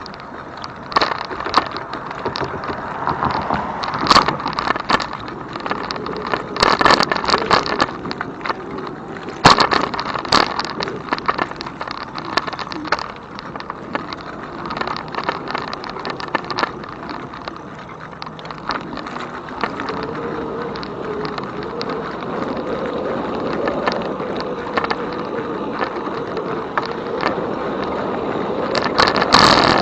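E-bike in motion: rattles and knocks from the bike jolting over bumps, over steady rolling noise. In the second half a steady, slightly wavering whine takes over.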